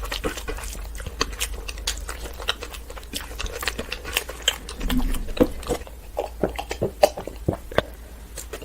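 Close-up wet chewing and lip-smacking of a person eating rice pulao and mutton curry: a quick, irregular run of sharp mouth clicks and squelches.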